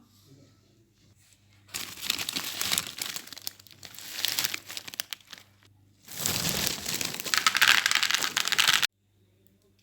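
Crinkling and rustling of plastic packaging being handled, in two spells of a few seconds each, the second louder.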